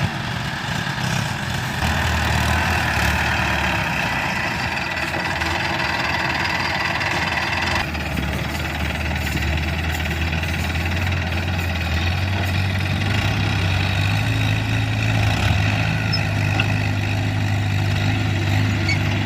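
A heavy vehicle's engine running steadily at a low rev, its pitch and loudness stepping up a little about two seconds in, again near eight seconds, and once more around thirteen seconds.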